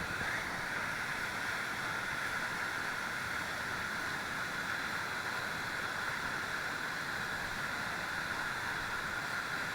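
Waterfall rushing with a steady, unbroken hiss of falling water.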